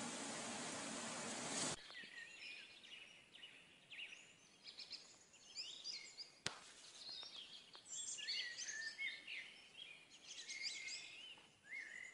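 Steady hiss for the first couple of seconds, cut off suddenly, then faint songbirds chirping: many short high chirps, with one sharp click about halfway through.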